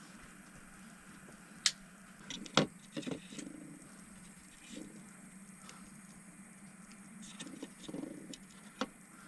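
Sharp clicks and light knocks from small objects being handled, with the loudest cluster about two and a half to three seconds in, over a faint steady hum.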